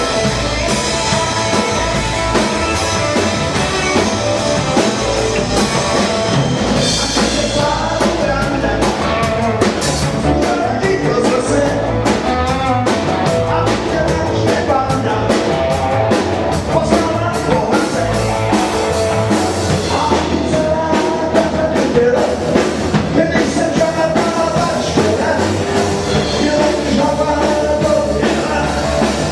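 A rock band playing live, with a singer over drums and guitars and a steady drum beat.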